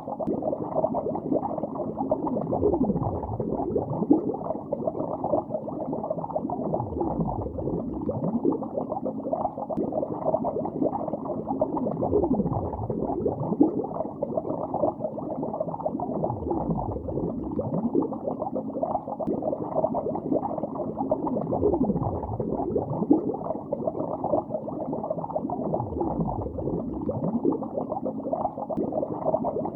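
Underwater bubbling: a continuous, muffled stream of bubbles, with a deeper low swell about every four to five seconds.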